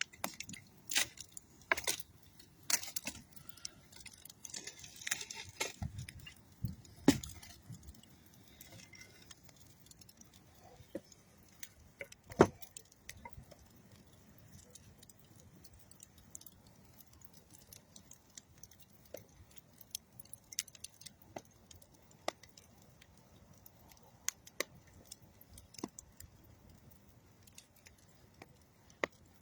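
Campfire of old railroad wood and dead tree wood crackling, with sharp pops that come thick in the first several seconds, the loudest two about seven and twelve seconds in, then thin out to scattered snaps.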